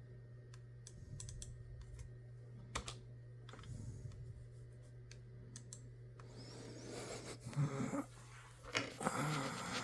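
Computer keyboard keys pressed one at a time, a few scattered clicks, then a louder stretch of rustling and knocking near the end, over a steady low hum.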